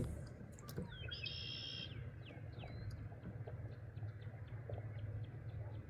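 A bird calls: one buzzy call a little after a second in, then a couple of short falling notes. Underneath runs a steady low hum with faint scattered clicks.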